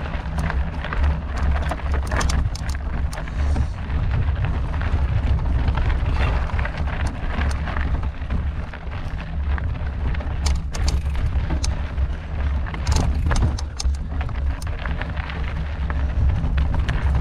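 Wind buffeting the microphone in a steady low rumble, with frequent sharp clicks and rattles of a mountain bike rolling over a rocky trail.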